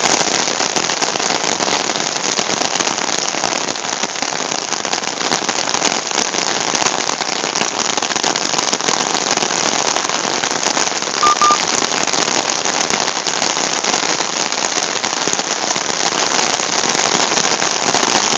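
Heavy rain pouring down, a steady dense hiss full of crackling drop impacts, as drops pelt an umbrella held over the phone.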